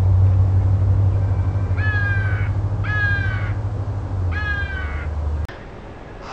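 A bird calls three times, about a second apart. Each call is a short, slightly falling note with strong overtones. A steady low hum runs under the calls and cuts off abruptly near the end.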